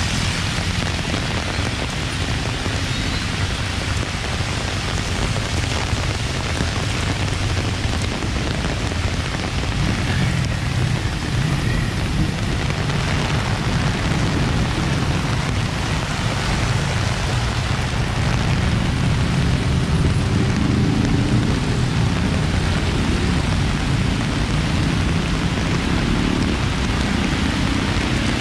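Heavy rain falling steadily on a wet street, with the low rumble of passing cars and motorcycles, which grows louder in the second half.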